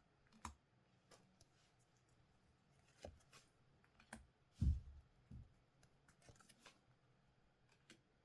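Collectible trading cards and their packaging being handled: scattered light clicks and rustles, with a soft thump a little past halfway as the loudest sound.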